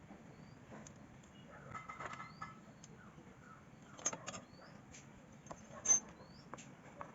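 Scattered clicks and clinks of metal tools or engine parts being handled, the sharpest two about four and six seconds in. A small bird chirps about once a second in the background, each call a short rising note.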